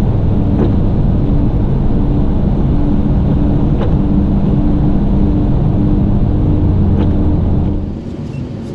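Plow truck's engine and road noise heard inside the cab while driving slowly through snow, a steady low rumble with a low tone pulsing on and off about one and a half times a second. The sound drops suddenly near the end.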